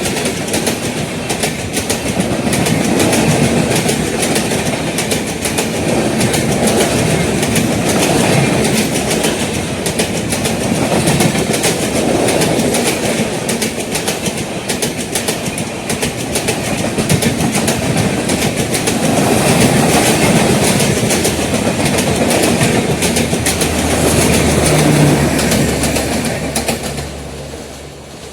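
Indian Railways passenger train passing: a long rake of coaches rumbling, with wheels clattering rapidly over the rail joints, the sound fading out over the last couple of seconds as the train goes by.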